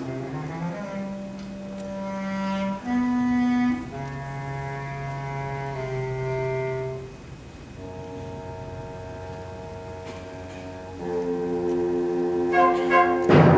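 An ensemble playing a slow, soft passage of held notes and a simple melody, growing louder about eleven seconds in, with a few short accented notes near the end.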